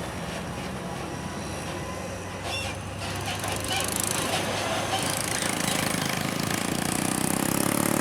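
Road traffic with heavy diesel trucks passing: a steady rattling engine drone over tyre and road noise. A truck engine grows louder in the last few seconds.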